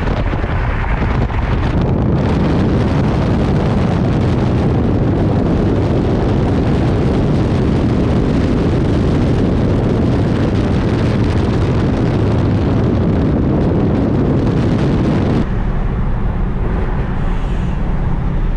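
Car driving at speed: steady engine and road rumble with heavy wind noise on the microphone. Near the end the wind hiss drops off suddenly.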